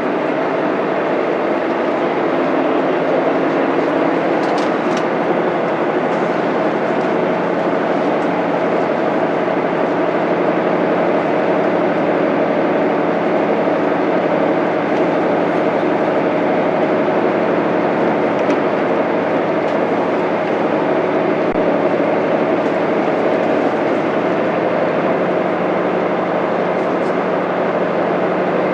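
Inside a Mitsubishi Fuso Aerostar bus under way: its 6M70 straight-six diesel runs with a steady drone over road noise.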